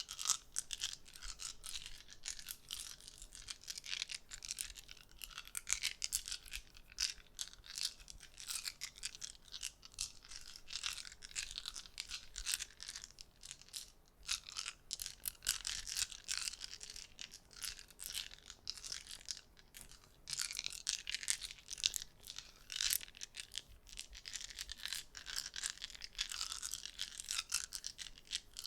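Small objects making a dense, irregular run of soft clicks with a scratchy crackle, some clicks sharper than others: an ASMR clicking trigger.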